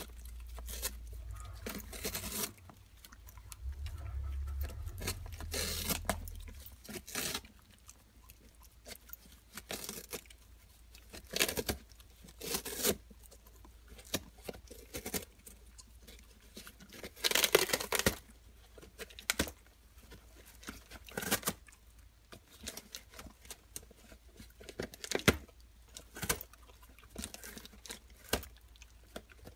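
A dog tearing and chewing cardboard: irregular bursts of ripping and crunching with short pauses between them.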